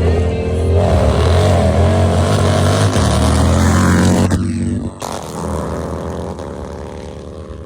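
Motorcycle engines running hard at full throttle in an ice drag race, a steady high-revving note that cuts back sharply about five seconds in and then fades as the bikes move away.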